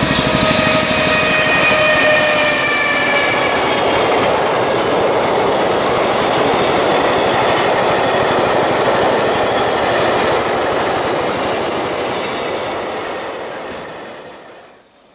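JR Freight EF210 electric locomotive passing at speed with a whine from its traction motors that sags slightly in pitch over the first few seconds, followed by the steady rumble and clatter of the container wagons going by. The sound fades out near the end.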